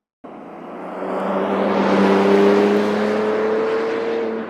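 The 6.0-litre W12 engine of a 2022 Bentley Continental GT Speed under acceleration as the car drives past on a track. The sound cuts in abruptly, the engine note climbs slowly in pitch and grows louder toward the middle, then holds.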